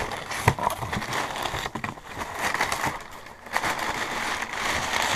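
Packaging rustling and crinkling as a new BMX wheel is handled and unwrapped, with a few sharp clicks.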